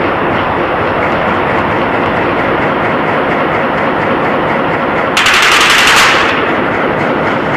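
Sustained heavy automatic gunfire, a dense continuous rattle of rapid shots. About five seconds in, a louder, sharper burst lasts about a second.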